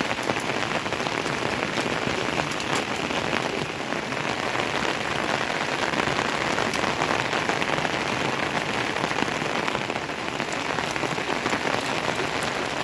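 Steady rain falling, a continuous wash of noise dotted with the ticks of single drops hitting.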